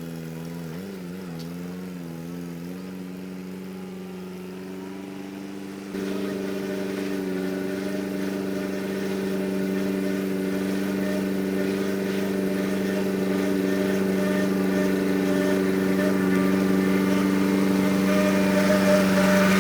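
Loader's engine running at a steady pitch, wavering slightly at first, then stepping up louder about six seconds in and growing gradually louder.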